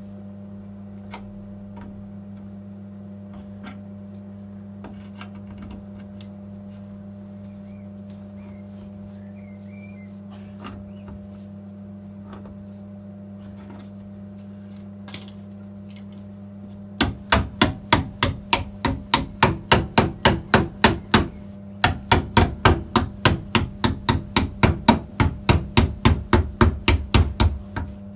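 A steady low hum with a few small clicks, then about two-thirds of the way in a hammer starts beating on the car's sheet steel, roughly three to four blows a second, breaking off for about a second before carrying on. This is the heel board repair metal being bent back over.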